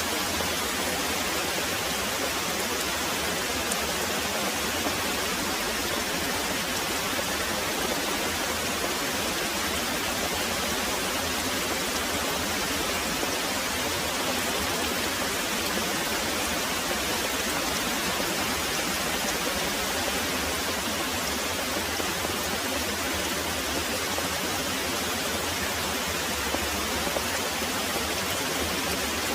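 Very heavy rain pouring steadily: an even, unbroken hiss with no separate drops or thunder standing out.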